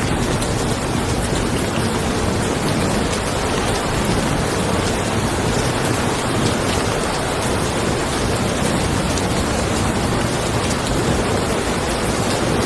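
Steady rain falling on a car, a dense even hiss of many small drop ticks.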